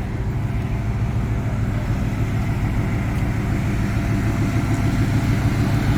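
A car engine running steadily at low revs, growing slowly louder.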